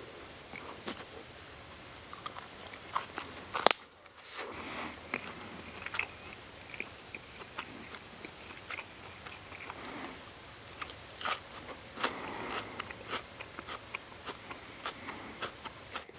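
Campfire crackling: irregular sharp pops and snaps from burning wood, one louder snap about four seconds in.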